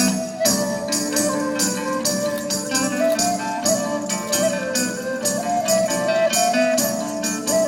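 Live medieval-style folk band music: a wandering melody line over a held low drone, driven by a steady beat of quick percussion strokes.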